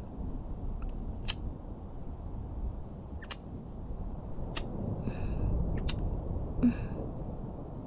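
Soft kissing sounds close to the microphone: a few short, separate lip smacks a second or two apart, with a couple of brief breaths, over a steady low rumbling background.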